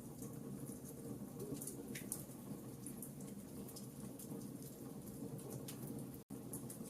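Wood fire crackling in a fireplace: scattered small pops and snaps over a steady low rumble of the burning fire. The sound drops out for a split second about six seconds in.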